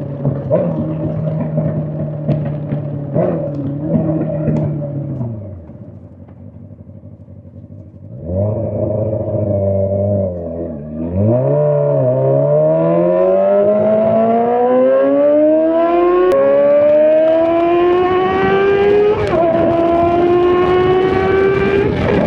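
Honda CBR600's inline-four engine through a straight-pipe exhaust. It runs steadily, falls off to a low idle for a couple of seconds, then pulls hard, the revs climbing with two upshifts, one about two-thirds of the way in and one near the end.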